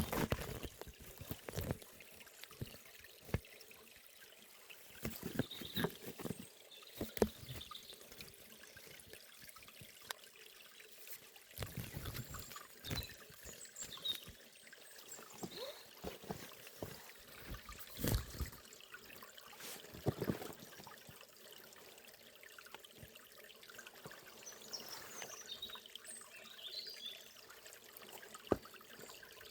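A small forest stream trickling and gurgling, with irregular splashes and plops from water running over stones. Faint bird chirps come through now and then.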